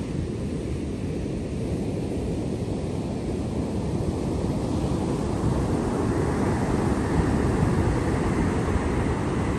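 Sea waves: a low, steady rush of surf that swells louder about halfway through.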